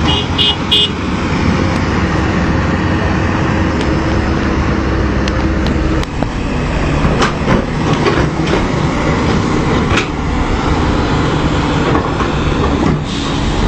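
Heavy machine's diesel engine running steadily under load, with three short high beeps right at the start. The sound shifts about six seconds in, followed by a few scattered knocks.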